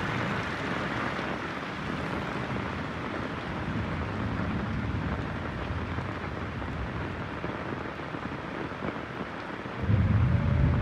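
Heavy rain falling in a steady hiss, with low thunder rumbling in the background; a louder, deeper rumble swells up near the end.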